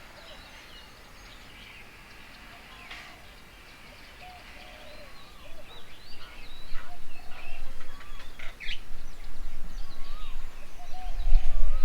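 Several birds calling with many short chirps and whistled notes. A low rumble comes in from about halfway and grows louder, becoming the loudest sound near the end.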